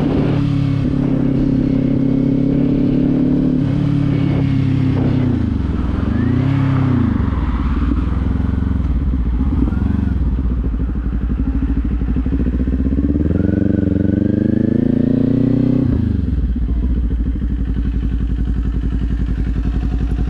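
Kawasaki Z400's parallel-twin engine running under riding load. The revs dip and climb a few times early on, rise steadily for several seconds, then drop suddenly to a low steady note near the end.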